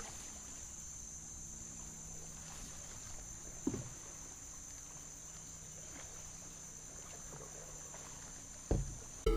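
Faint sounds of kayaking on a creek: a steady high-pitched drone in the background, with two soft knocks, likely paddle or gear against the hull, about four seconds in and near the end.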